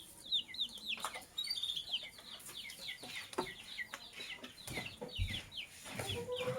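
Lovebirds chirping in a fast, busy run of short high calls, each sliding down in pitch, with scattered clicks among them. A lower-pitched call comes in near the end.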